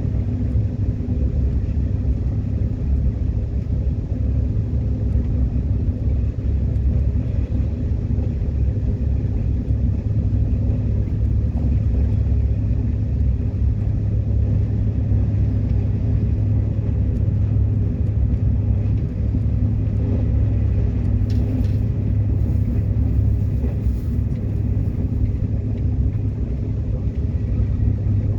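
Subway train running along the track: a steady low rumble with faint steady tones above it, and a few faint high ticks about three-quarters of the way through.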